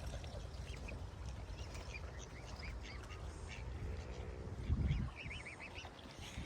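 Birds calling repeatedly in short notes, with a quick run of calls around five seconds in, over a steady low rumble. A dull thump sounds just before the run.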